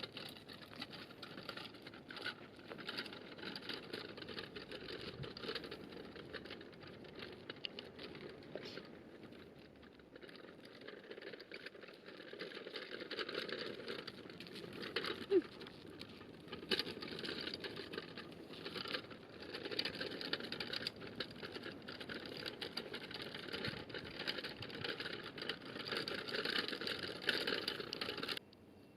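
Small wheels of a dog wheelchair rolling and rattling over the path, with light pattering steps, as the old dog walks in it. The sound cuts off abruptly near the end.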